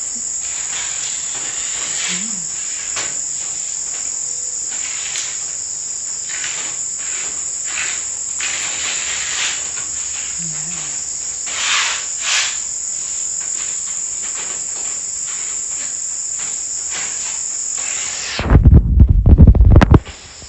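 A steady, high-pitched insect chorus, cricket-like, runs throughout. Near the end, a loud low buffeting on the microphone lasts about a second and a half and masks it.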